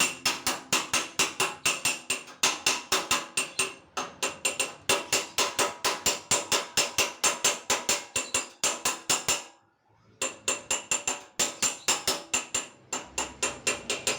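A hammer tapping rapidly on a car's sheet-metal body panel, about four or five ringing knocks a second, to work out a dent; the tapping pauses briefly about ten seconds in.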